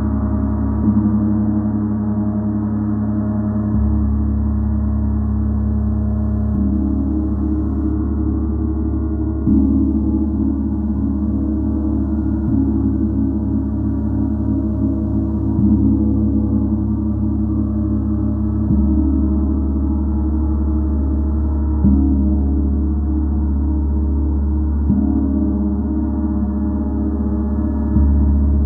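Gong played in a slow, steady pulse, struck softly about every three seconds, so its deep, continuous wash of overlapping tones never dies away between strokes.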